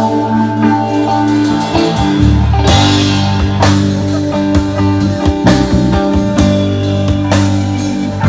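A rock band playing instrumental music: guitar over a bass line and drum kit, with the bass coming in strongly about two seconds in.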